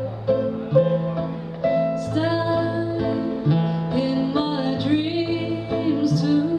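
Live band music: plucked and strummed guitar over a low bass line, with a voice singing from about two seconds in.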